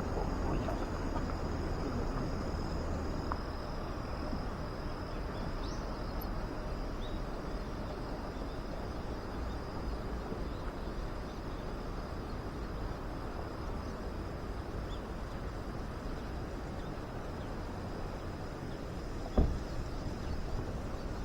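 Outdoor ambience with insects trilling, a thin steady high note that runs on unchanged, over a low steady background rumble. Near the end comes a single sharp knock.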